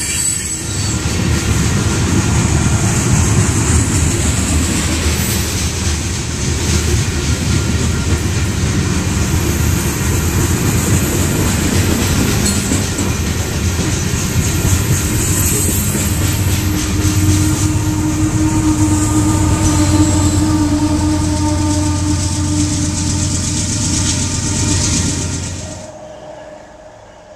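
Long freight train of covered hopper cars passing close by: a steady rumble and clatter of steel wheels on the rails. A steady tone joins in for several seconds past the middle, and the sound drops away sharply about a second before the end.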